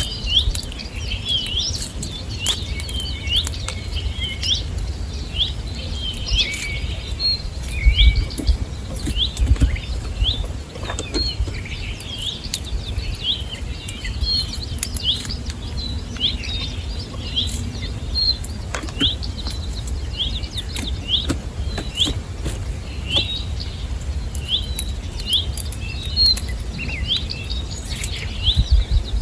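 Small birds chirping at a feeder, a short sharp call repeated about once a second, with scattered clicks and a low rumble underneath.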